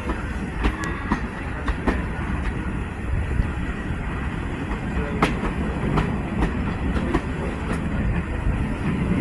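Heritage railway train running along the track: a steady low rumble with irregular clicks and knocks from the wheels and rails.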